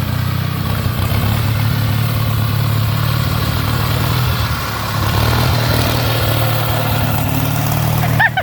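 A riding lawnmower's small petrol engine runs steadily, its pitch wavering a little. Near the end a person whoops a few times.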